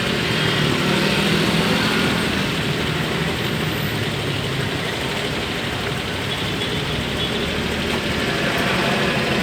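A motor running steadily, a low hum under an even hiss.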